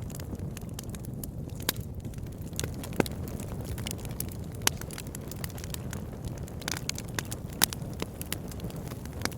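Campfire burning: scattered sharp crackles and pops over a steady low rumble of the flames.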